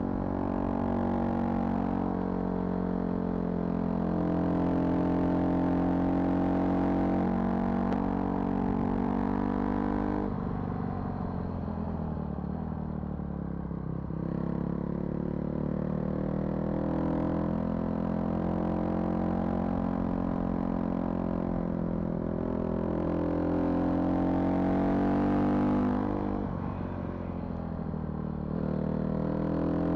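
Vehicle engine running under way. Its note sinks and then climbs steadily as speed changes, drops suddenly about two-thirds of the way through, and starts climbing again.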